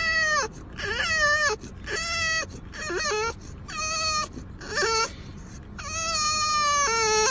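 A pet animal giving a series of drawn-out whining, crying calls, about six of them, each bending up and down in pitch, with short gaps between.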